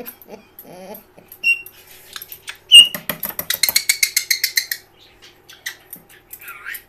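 Caique parrot calling: two short, sharp high chirps, then a rapid run of pulsed chattering for about two seconds, and a last chirp near the end.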